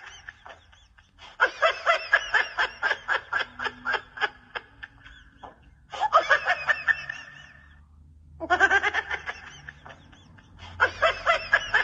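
A person laughing hard in rapid, repeated 'ha-ha' pulses, in four bouts with short breaks for breath between them.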